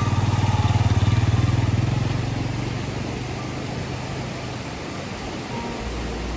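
Motorcycle engine running with a fast, even pulse, loudest in the first two seconds and then fading away, leaving a lower steady rumble near the end.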